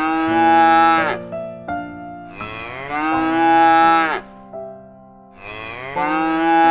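Cow mooing: three long moos, each falling in pitch as it ends. The first is finishing about a second in, the second runs through the middle, and the third begins near the end, over a soft background music bed.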